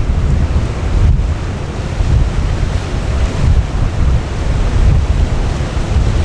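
Strong wind buffeting the microphone in irregular gusts, over a steady rushing noise of wind and sea water.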